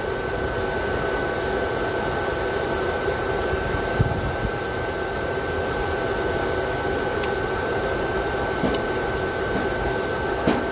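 Steady electric fan hum with a constant high-pitched whine, and a single light knock about four seconds in.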